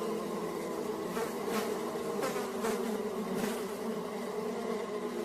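A flying insect buzzing steadily, its pitch wavering a little, with a few soft clicks partway through.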